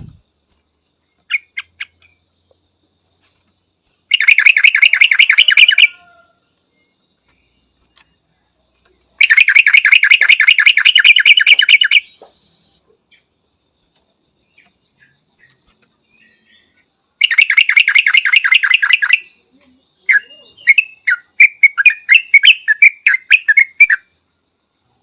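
Yellow-vented bulbul calling: three rapid chattering trills of about two to three seconds each. Near the end comes a run of quick, varied chirps.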